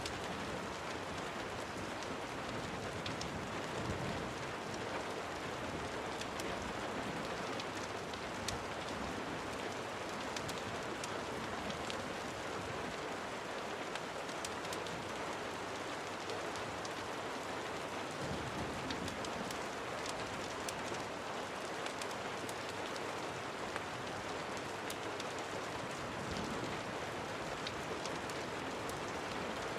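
Steady rain falling, with scattered small sharp ticks through it.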